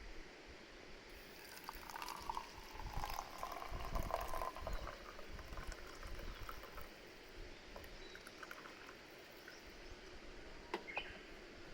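Liquid being poured into a container for a few seconds, loudest about two to five seconds in, with scattered light clicks and clatter.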